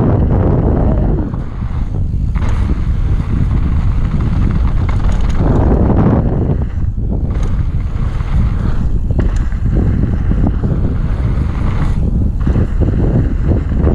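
Wind buffeting the camera microphone during a mountain-bike descent, mixed with the clatter and rattle of the bike over rough trail. There are a few brief lulls along the way.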